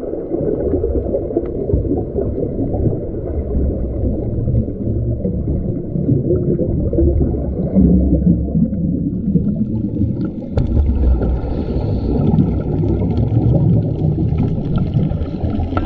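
Muffled underwater sound with the camera below the surface: a continuous low rumble and gurgling of water and air bubbles against the microphone.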